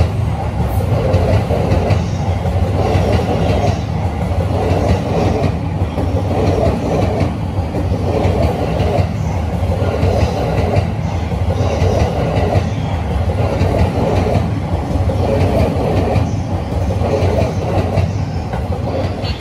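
Electric commuter train rolling along the platform. A steady low rumble runs under a wheel clatter that repeats about once a second.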